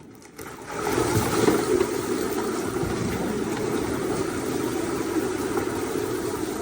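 Backed-up sewage water gushing out of an opened sewer cleanout into a plastic trash bag tied over it: a steady rushing that starts abruptly about half a second in and keeps flowing.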